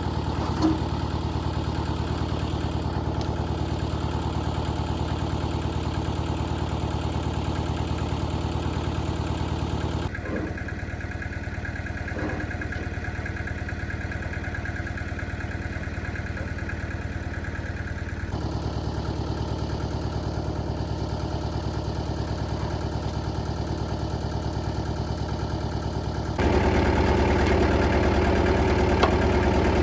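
A vehicle engine running steadily at a constant speed. Its sound changes abruptly about ten, eighteen and twenty-six seconds in, and is louder after the last change.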